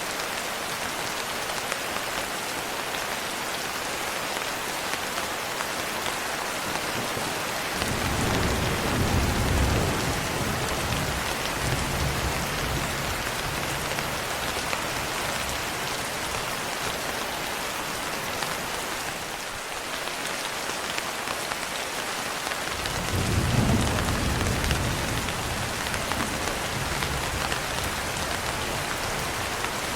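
Steady rain falling as an even hiss, with two low rolls of thunder lasting a few seconds each, the first about eight seconds in and the second about twenty-three seconds in.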